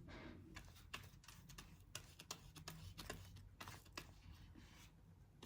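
Faint, scattered small clicks and taps of hands working with paper and PVA glue at a craft table.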